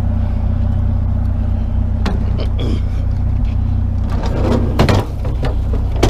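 Vehicle engine idling steadily, with a few sharp knocks and clanks about two seconds in and again near the end.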